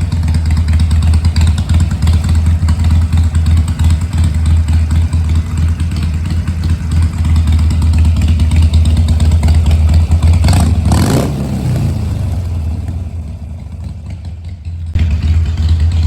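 Harley-Davidson Iron 883's air-cooled V-twin idling through Bassani Power Shot slip-on mufflers with a deep, throaty, pulsing exhaust note. About ten and a half seconds in there is a sharp burst that falls away, and the exhaust sound is lower for a few seconds before it comes back up near the end.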